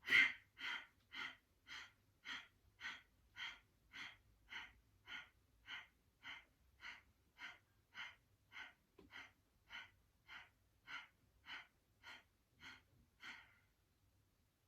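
Kapalbhati breathing: a woman's rapid, forceful exhalations through the nose, each a short sharp puff pushed out by a contraction of the stomach, about two a second in an even rhythm. The puffs stop shortly before the end.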